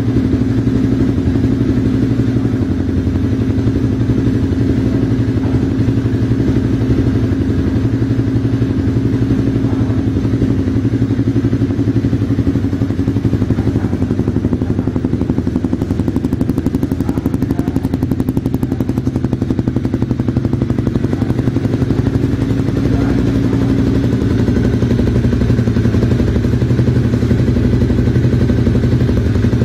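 Honda CBR250R's single-cylinder engine running steadily through an aftermarket Bizumo exhaust, its engine speed holding even with no revving.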